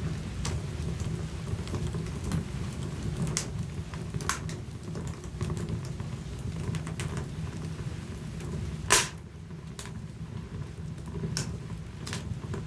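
Wood fire burning in a fireplace: a steady low rumble of the flames with scattered sharp crackles and pops, a loud pop about nine seconds in.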